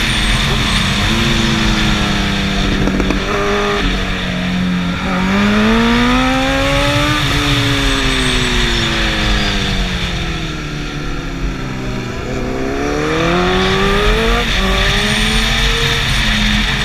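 Sport motorcycle engine on a racetrack, revving up and rolling off: its pitch climbs, drops away, then climbs again, with quick steps like gear changes a few seconds in.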